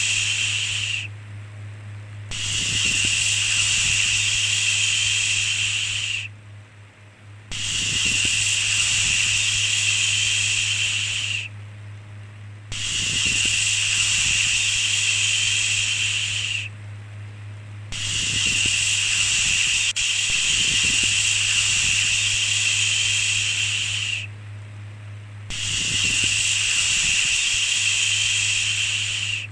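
Long 'shhh' shushing sounds repeated over and over, each lasting about four to six seconds with a pause of about a second between them, over a steady low hum.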